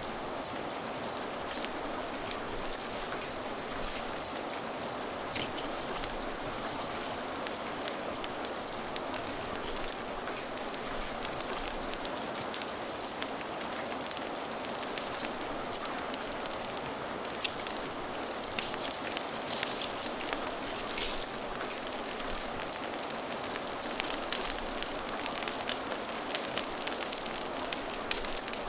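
Steady rain, mixed with the scattered sharp crackles and pops of a fire, which come more often in the second half.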